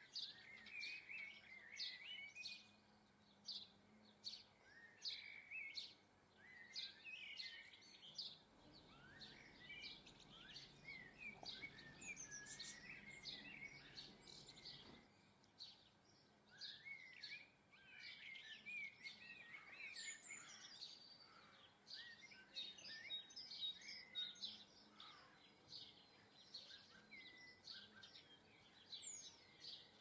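Small garden birds chirping and twittering all through, quietly: short repeated chirps mixed with rising and falling twitters. A faint low rumble runs for several seconds in the middle.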